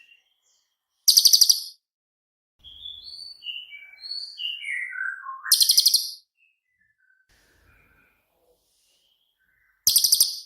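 Cililin songbird singing: three loud, rapid, high rattling trills, and between the first two a run of clear whistled notes that step down in pitch and lead straight into the second trill.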